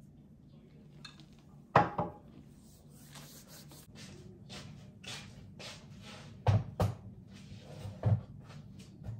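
Handling noises: a run of short rubbing or scraping strokes broken by several sharp knocks, the loudest about two seconds in and a pair at about six and a half seconds.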